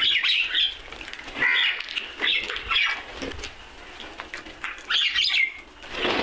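Crows cawing: several harsh calls in the first three seconds, a pause of about a second and a half, then more calls near the end.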